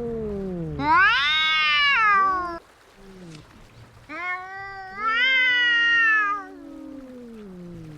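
Two domestic cats yowling at each other in a fight standoff. A loud wavering yowl about a second in and another about five seconds in, each rising then falling, sound over a lower drawn-out yowl that slides down in pitch.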